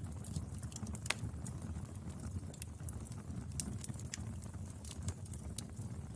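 Wood fire burning: a steady low rumble with irregular crackles and pops, the sharpest pop about a second in.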